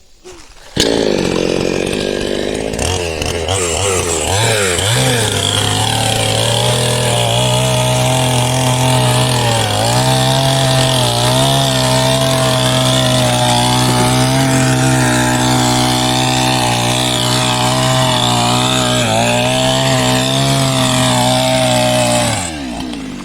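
Ryu two-stroke chainsaw with a 22-inch bar, coming up to speed about a second in and then running at full throttle for about twenty seconds, cutting into hard wood, with brief dips in engine speed as the chain loads up; it drops back toward idle near the end.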